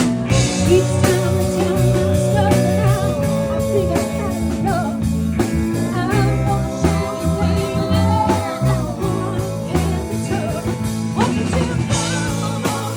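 Rock band playing a bluesy song with guitar, and a voice holding long notes twice.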